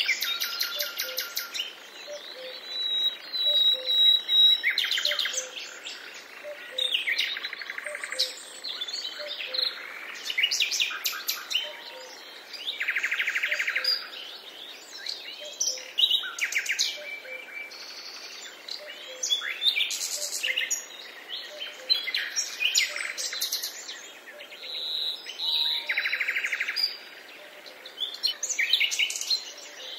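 Several songbirds singing and calling in a dense mix of trills, rapid repeated chirps and whistled phrases, one after another with short gaps between.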